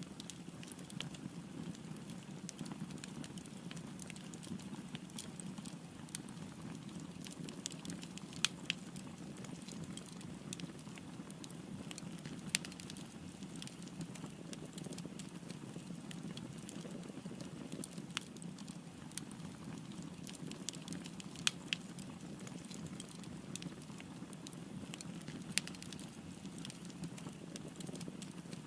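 Wood fire burning with a steady low rush of flames and scattered sharp crackles and pops from the burning wood.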